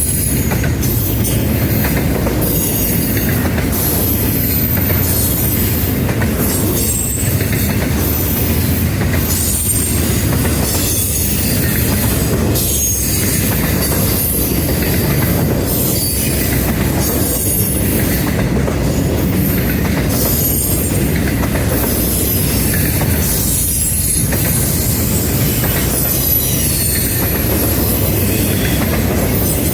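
Norfolk Southern freight train rolling past, its cars making a steady loud rumble with a regular beat about every second and a half. Faint high-pitched wheel squeal comes and goes.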